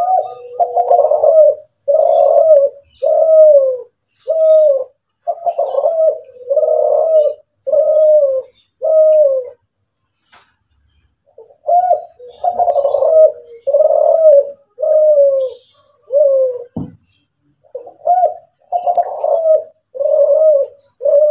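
Kelantan-strain spotted dove (derkuku) cooing in a long run of repeated low coos, about one a second, in two phrases with a short pause about halfway through.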